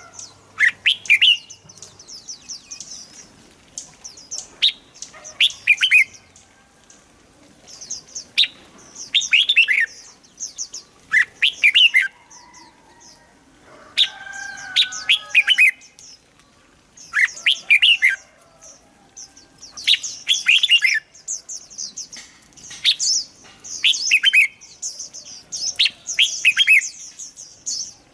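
Red-whiskered bulbul song: short phrases of quick falling whistled notes repeated every second or two, with higher chattering between them.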